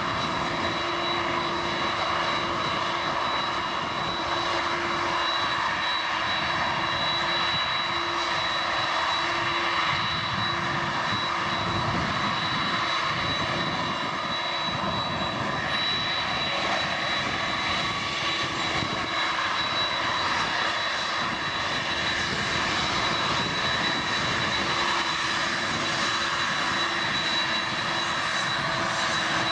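Airbus A330-200's twin General Electric CF6-80E1 turbofans running steadily at low thrust, a constant rushing jet noise with a steady high whine and a low hum and no spool-up.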